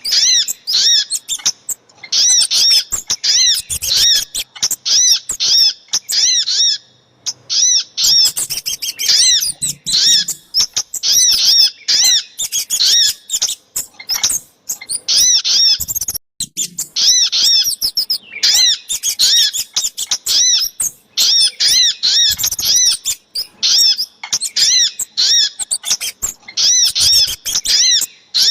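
Bird-lure recording of small songbirds, sogok ontong and kemade calls combined, in runs of rapid high chirping notes. The runs repeat again and again with short breaks between them.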